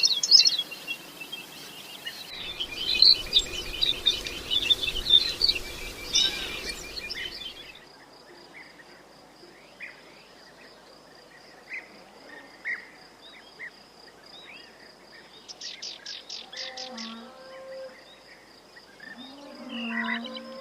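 Quail chirping and calling in fast high notes, with wind rumble for several seconds. Over the second half the chirps and calls become sparser, over a steady, pulsing high insect trill.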